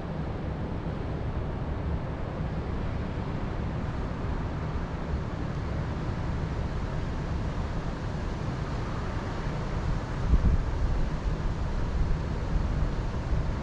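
Wind blowing across the microphone, a steady low rumble that gusts harder about ten seconds in.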